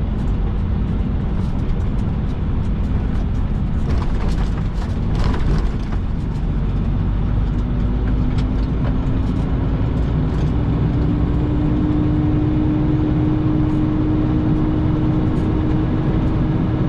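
Semi truck's diesel engine running as the truck drives slowly, its pitch rising gradually partway through as it picks up speed, with a few brief knocks or rattles.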